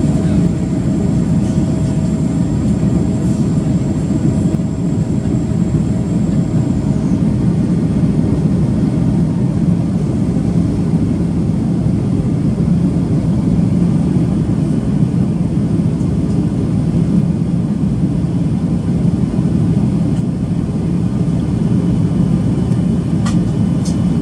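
Steady cabin noise of a Boeing 737-800 in flight: the CFM56 jet engines and the rush of air past the fuselage. A thin whine stops about seven seconds in, and a few faint clicks come near the end.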